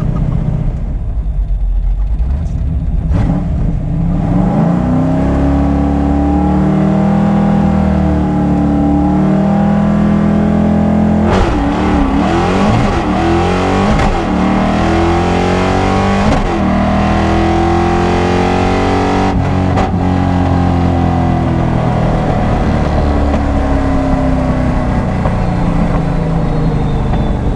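Car engines running and revving, several at once, their pitch rising and falling.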